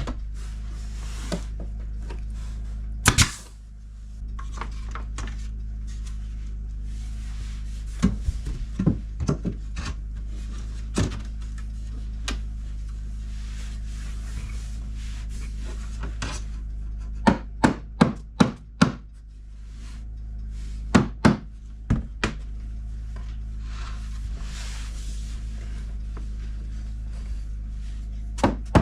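Hammer driving nails into tongue-and-groove wood boards, sharp blows in quick runs of three to five, with boards rubbing and knocking as they are fitted between the runs.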